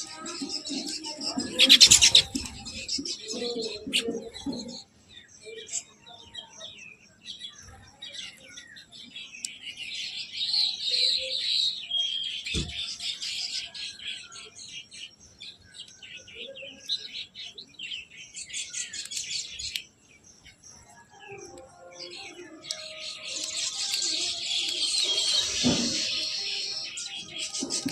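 Birds chirping in repeated high-pitched bursts, busiest near the middle and again near the end. There is a single sharp, loud sound about two seconds in.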